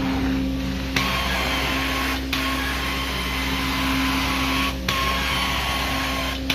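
Carpet-cleaning extraction machine running with a steady vacuum hum and hiss of suction through the wand, the sound changing sharply about four times as the wand is stroked across the carpet.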